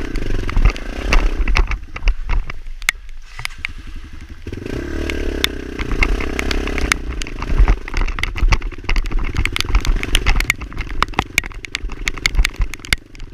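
Yamaha TT-R230 trail bike's single-cylinder four-stroke engine running and revving over rough ground, with many sharp knocks and clatters from the bike over stones. The engine drops back about two seconds in, then picks up again a couple of seconds later.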